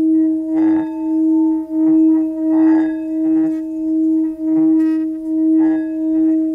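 Engraved Tibetan singing bowl rubbed around its rim with a wooden mallet, singing a steady low tone with a fainter higher overtone. The tone swells and fades about one and a half times a second.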